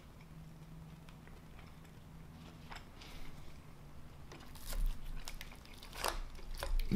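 Person chewing a mouthful of mac and cheese close to the microphone: soft wet mouth clicks and smacks, growing louder and more frequent in the second half.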